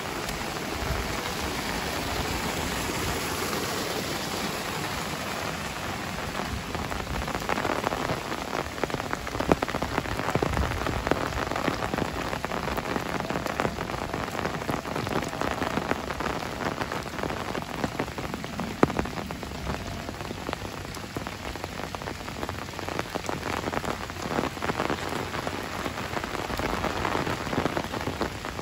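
Heavy rain falling steadily, a dense even hiss of drops. Close individual drop hits stand out more after the first several seconds.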